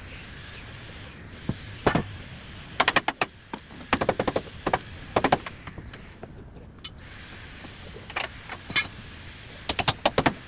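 Irregular clusters of sharp clicks and clinks, hand tools and engine parts being handled, over a steady background hiss.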